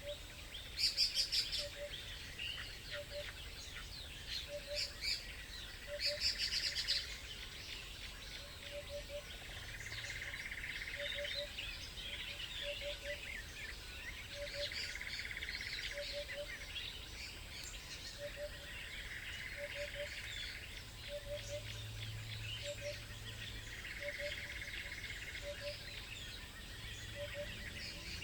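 Several wild songbirds chirping and singing over one another, with a loud rapid call twice in the first seven seconds. A short low double note repeats about every second and a half, and a hazy buzz comes and goes every few seconds.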